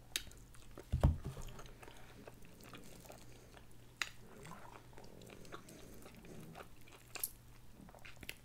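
Close-miked chewing and biting of fried chicken, with sharp little clicks and smacks of the mouth and fingers. A loud low thump about a second in.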